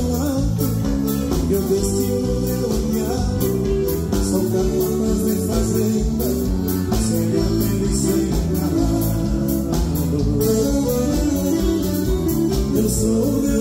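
Band music in a southern Brazilian gaúcho style, with guitar and a steady bass beat, playing continuously.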